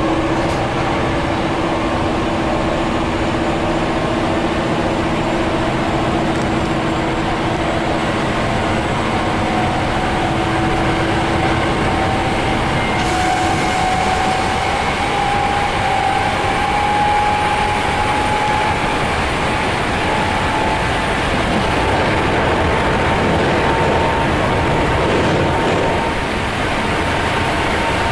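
Running noise inside a Hankyu 5300 series electric train car: a steady rumble of wheels on rail with a whine that rises slowly in pitch as the train gathers speed. A steady lower hum stops about halfway.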